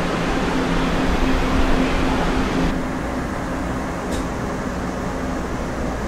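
Steady running noise inside a moving passenger train carriage: a low rumble and hiss with a faint steady hum. A little before halfway the higher hiss drops away suddenly, and a brief click sounds about two-thirds in.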